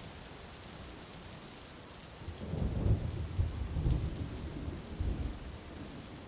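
Steady heavy rain, with a deep rumble of thunder that rises about a third of the way in and rolls away over a few seconds.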